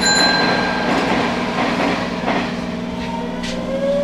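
Hanshin electric local train running under a steady low hum. About three seconds in, the traction motors start a whine that rises in pitch as the train picks up speed pulling away from the station.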